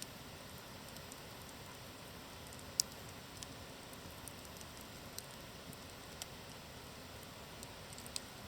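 Wood campfire burning with a steady soft hiss and scattered sharp crackles and pops, the loudest about three seconds in.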